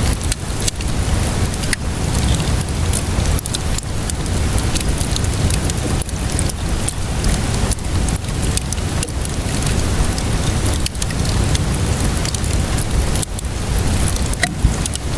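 Steady rainfall mixed with a wood fire crackling, with frequent sharp pops and snaps over a constant low rush.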